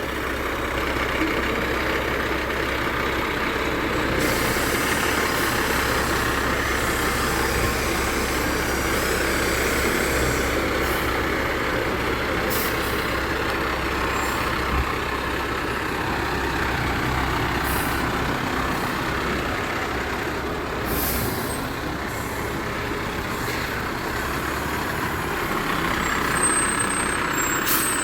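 Garbage truck's diesel engine running steadily, with a few short sharp sounds here and there.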